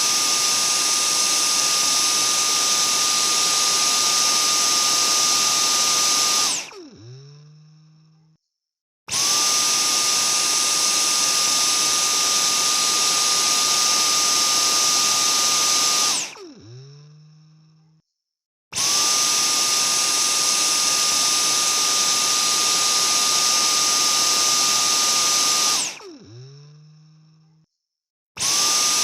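Vacuum cleaner switched on and off repeatedly: each time the motor comes up to a steady high whine with a rushing hiss, runs about seven seconds, then is switched off and winds down with a falling tone. This happens three times, and it starts up again near the end.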